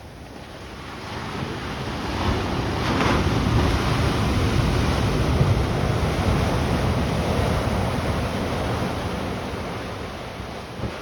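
Ocean surf breaking on the beach: a wash of wave noise that builds over a couple of seconds, holds loud through the middle, then slowly recedes. Wind rumbles on the microphone underneath.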